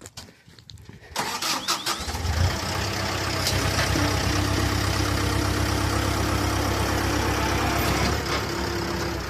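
SkyTrak telehandler engine starting about a second in, catching and then running steadily, with a steady whine joining a couple of seconds later.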